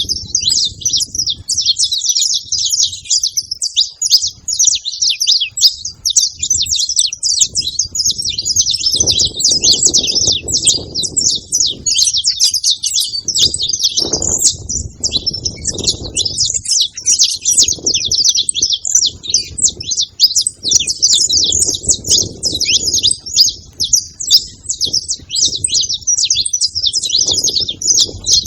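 Saffron finches singing, several voices overlapping in a dense, unbroken run of high chirps and trills.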